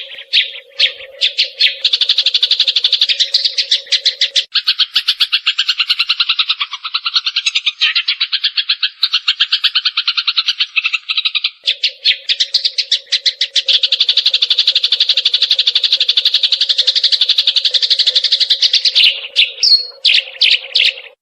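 Eurasian tree sparrow chirping in a rapid, unbroken run of sharp notes, many a second, with a brief break and a few separate chirps near the end.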